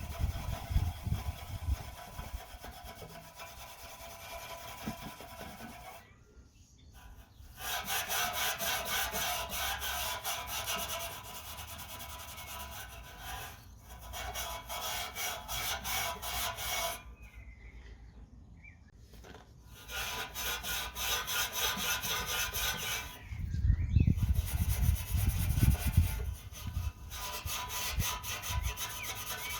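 Wire wool loaded with metal polish paste scrubbed rapidly back and forth over a car's metal exhaust tip, in several runs of quick scratchy strokes with short pauses between them, and a few low bumps near the end.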